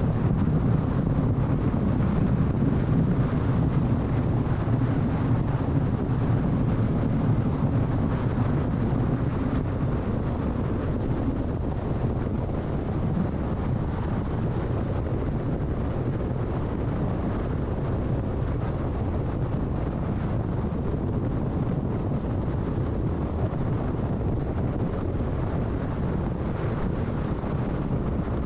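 Car driving at freeway speed: a steady rumble of tyres and wind, easing slightly about ten seconds in.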